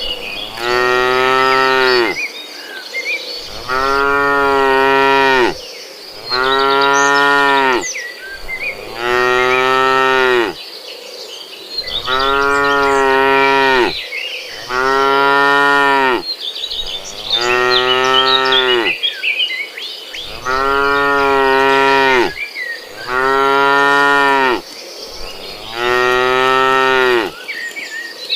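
A cow mooing over and over: about ten long, even moos, each about two seconds long and coming every two and a half seconds or so.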